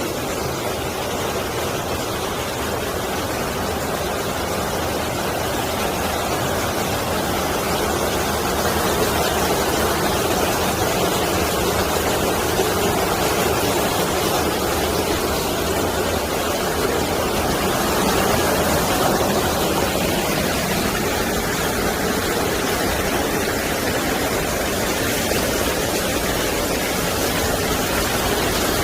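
Mountain stream rushing over rocks in a steady, even torrent of water noise.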